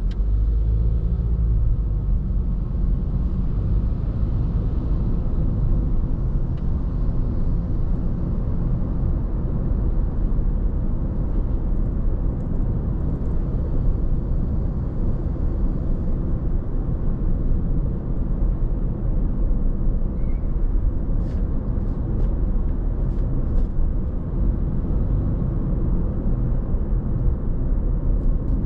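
A car driving steadily on the road: a constant low rumble of engine and tyre noise.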